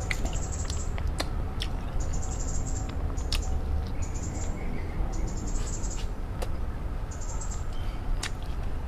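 A bird chirping in short high trills, about one every second and a half, over lip-smacking and mouth clicks from eating.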